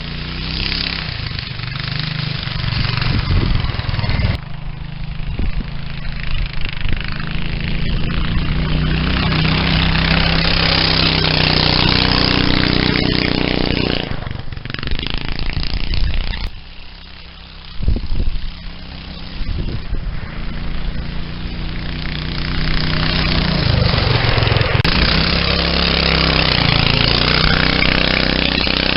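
Go-kart's swapped-in 11 HP engine running at varying speed, its note rising and falling, with abrupt breaks in the sound a few times.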